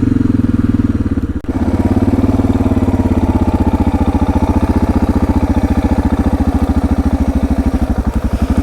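Suzuki DR650's single-cylinder engine running at low revs with an even pulse of about ten beats a second, with a brief dip about a second and a half in.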